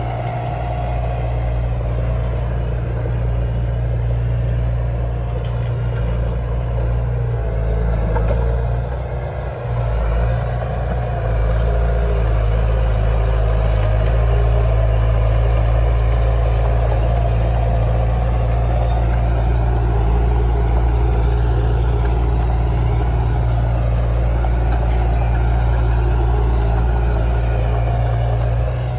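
Heavy diesel earthmoving machinery running steadily, a deep engine hum that dips briefly about nine seconds in and runs a little louder from about eleven seconds on.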